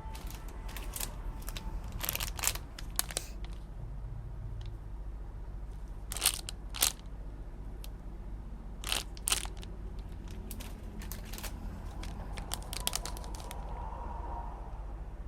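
Plastic packaging crinkling and crackling as it is handled and opened, in irregular sharp crackles, a few of them louder in the middle, over a steady low hum.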